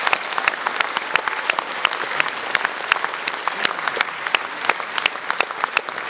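Concert hall audience applauding steadily after a song, many hands clapping.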